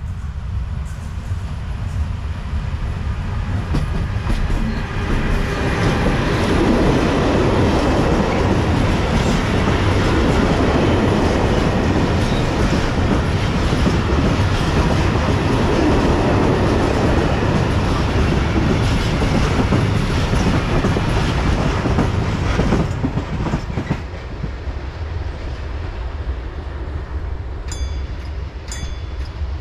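Freight train of tank wagons passing close by. Its rumble builds over the first six seconds, stays loud, and drops away about 23 seconds in as the train clears. Near the end comes a run of evenly spaced sharp clicks.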